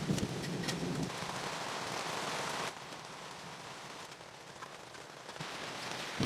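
Steady rain falling, with a few sharp drop ticks. The rain noise drops suddenly in level about two and a half seconds in, and a single knock comes at the end.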